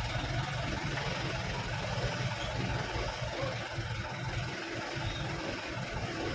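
Truck engine running steadily with a low drone.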